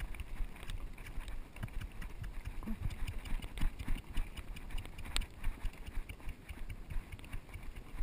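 Unshod horse's hooves knocking and scraping on rocky ground in irregular footfalls as it picks its way along, over a low rumble.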